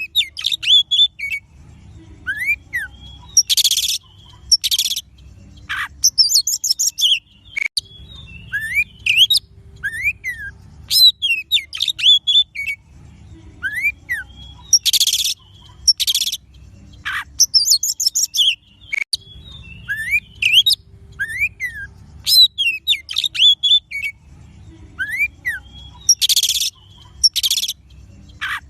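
Oriental magpie-robin (kacer) singing: varied whistled notes that swoop up and down, harsh rasping bursts and fast high trills. The same song sequence repeats about every eleven seconds, as in a looped lure recording.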